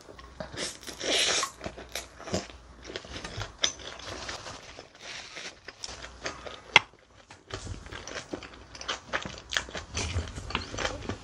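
Close-miked chewing of a large mouthful of bibimbap, rice mixed with seasoned vegetables, heard as a dense run of short wet clicks. It is loudest about a second in, with one sharp click a little past halfway.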